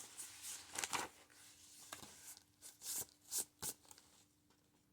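Faint rustling and crinkling of paper journal pages and a laminated page being handled and turned, in a string of short rustles that stop about four seconds in.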